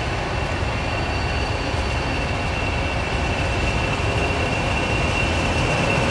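Class 20 diesel locomotive approaching on the rails, a steady low running noise that grows slowly louder, with a high steady wheel squeal on top.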